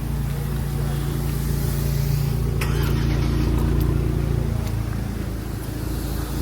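An engine running steadily close by, a low hum with an even pitch that swells a little toward the middle and eases near the end. A few faint clicks come around the middle.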